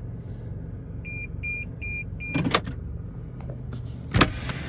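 Car engine idling with a steady low hum, under four short high electronic beeps about half a second apart. A brief rustle follows, and near the end a sharp knock, the loudest sound.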